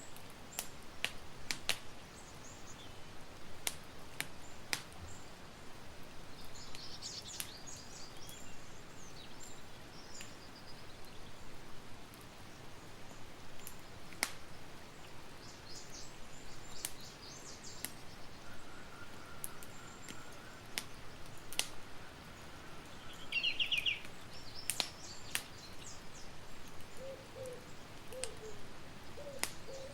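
Campfire crackling, with sharp pops scattered over a steady hiss. Songbirds chirp several times, and a dove coos near the end.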